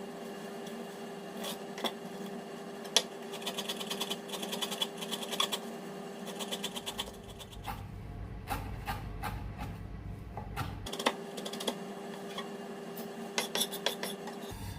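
A knife chopping herbs on a cutting board, in bursts of quick strokes several a second.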